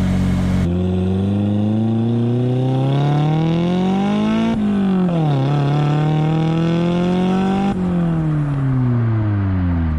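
Car engine accelerating hard: the revs climb for a few seconds and drop sharply at a gear change. They then hold and rise gently before falling away steadily near the end as the car slows.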